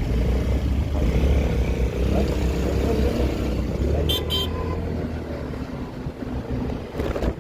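Riding noise from a Honda Forza 250 scooter: a steady low rumble of engine and wind on the microphone. About four seconds in come two short high beeps, and near the end a sharp jolt as the scooter hits a pothole.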